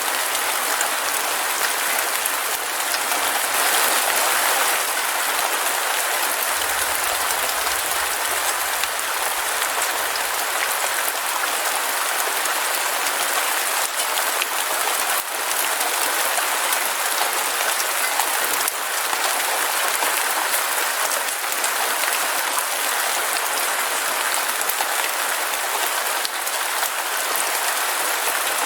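Heavy rain falling steadily, a dense, even hiss of drops pattering on surfaces.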